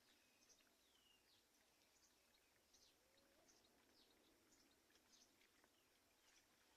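Faint bird chirping: many short, high chirps, a few each second, with a couple of falling whistles about a second in.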